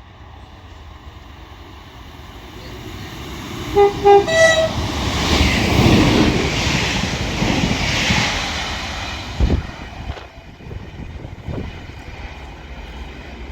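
Two coupled Class 158 diesel multiple units passing through at speed: a brief two-tone horn sounds about four seconds in, then the rush of the train builds and fades as it goes by, with a couple of thumps near the end.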